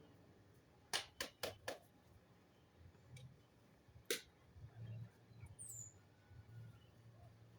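Four sharp clicks in quick succession about a second in and another near four seconds, with a single short, high, falling bird chirp near six seconds over a faint low hum.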